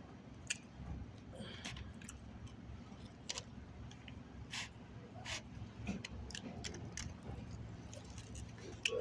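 Eating sounds: scattered small clicks and mouth noises, a few per second, over a low steady hum.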